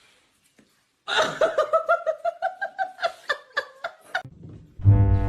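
A person laughing in a quick run of short bursts for about three seconds, starting about a second in; music begins near the end.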